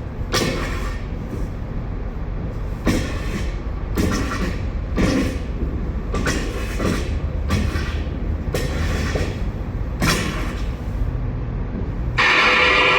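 Repeated scraping knocks of a hand tool working stuck potatoes loose from a truck trailer's floor, one roughly every second or so, over a steady low rumble. About twelve seconds in, a louder, dense rushing sound takes over.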